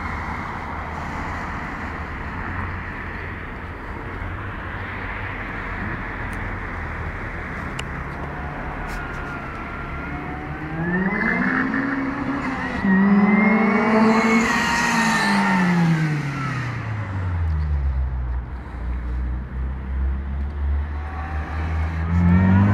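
Supercharged Honda B16A2 four-cylinder with an Eaton M62 blower, at first a steady low rumble, then accelerating hard about ten seconds in: the engine note and a high blower whine rise together, hold for a few seconds, then fall away. It settles to a low steady run and revs up again near the end.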